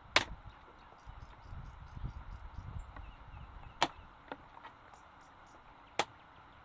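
Three sharp knocks, the first near the start, the second a little before the four-second mark and the third about two seconds later, with low rumbling and knocking between the first two.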